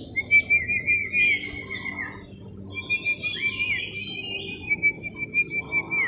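A bird singing two long, rapidly warbling trills, the second with a few brief higher notes over it.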